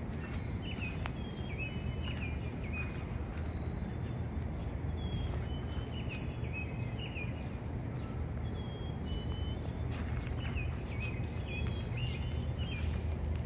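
Small birds chirping in short, repeated phrases of quick stepped notes, over a steady low rumble.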